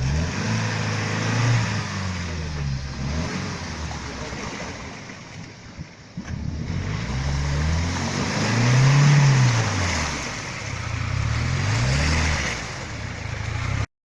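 UAZ off-road vehicle's engine revving up and falling back several times while driving through mud. The sound cuts off suddenly near the end.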